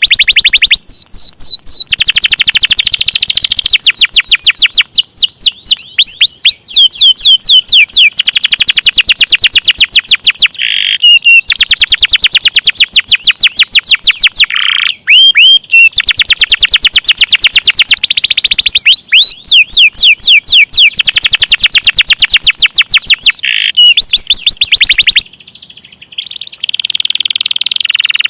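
Domestic canary singing long rolling trills of very rapid high-pitched repeated notes, broken by quick downward-sweeping chirps, with a short drop in the song near the end.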